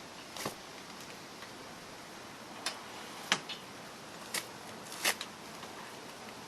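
A handful of short, sharp clicks and knocks, spaced irregularly over a faint hiss, from handling a pickup truck bed cover as it is worked along a wooden rail.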